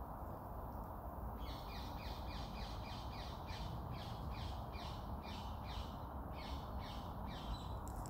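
A bird calling in a fast series of short downward-sweeping notes, about three a second, starting about one and a half seconds in, over a steady outdoor background hiss.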